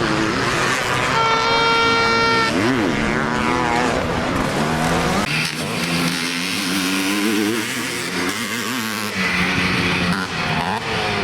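Several motocross bikes racing, their engines revving up and down as the riders work through the gears. About a second in, one engine holds a steady high note for about a second.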